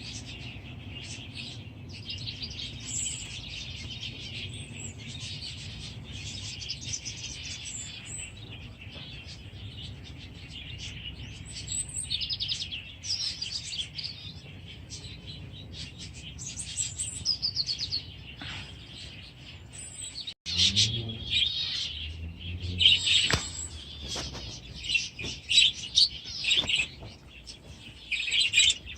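A flock of budgerigars chattering and warbling with busy, overlapping high chirps. The audio drops out for an instant about two-thirds of the way through, and the chirping is louder and closer after it.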